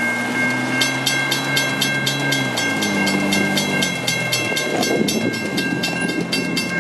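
Western Cullen Hayes mechanical level-crossing bell ringing: a steady ringing tone, with rapid even hammer strikes starting about a second in, several a second. Under it, a diesel locomotive's horn sounds a low chord that shifts partway through and dies away after about four and a half seconds.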